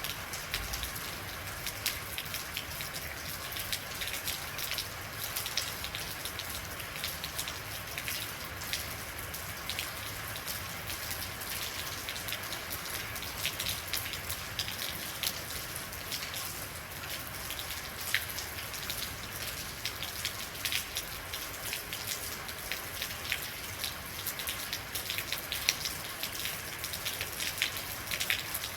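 Real rain falling steadily, with many individual drops ticking sharply against hard surfaces over an even hiss.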